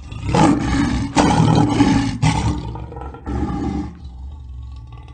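Lion roaring: a long, loud roar broken into several pulses over the first two and a half seconds, then a shorter roar about three seconds in, after which it goes quieter.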